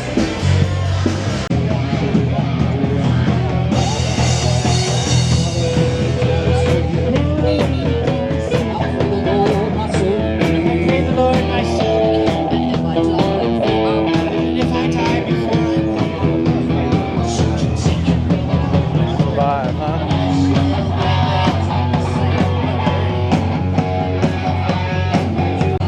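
Live rock band playing, with drums, guitar and a singer, loud and with a steady beat.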